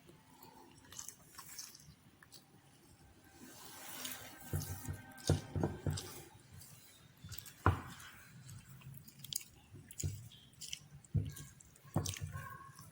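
Close-up chewing and mouth sounds of someone eating yellow tofu, with irregular soft thuds and sharp clicks.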